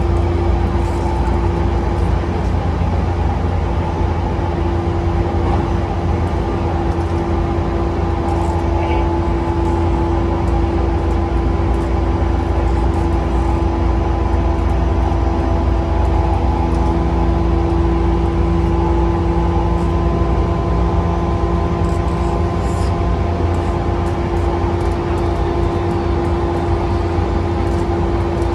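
E235-1000 series electric train running at steady speed, heard from inside the car: a steady rumble of wheels on rail with a humming tone held over it.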